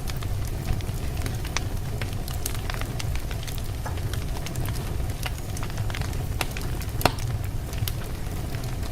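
Wood fire burning logs in a fireplace: a steady low rumble of flame with frequent irregular sharp crackles and pops, one louder pop near the end.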